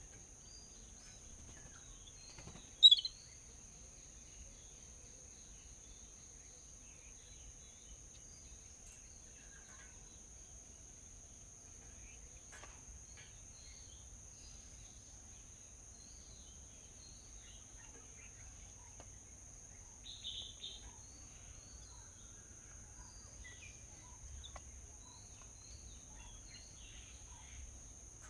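Birds chirping sporadically over a steady high-pitched insect drone, with one loud sharp chirp about three seconds in and a brief louder burst of calls about twenty seconds in.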